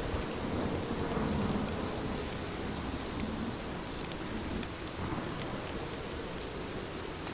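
Heavy rain falling steadily, with a low rumble of thunder through the first couple of seconds that then fades into the rain.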